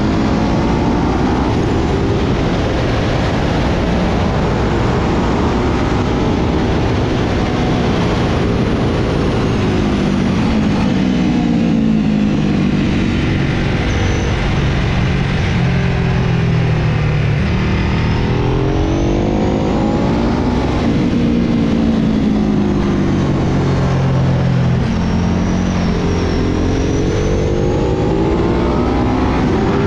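Sport motorcycle engine under hard acceleration on a racetrack, with wind rushing over the helmet camera. The engine note drops twice, around twelve and twenty-four seconds in, and climbs again after each, as the bike slows for corners and accelerates out.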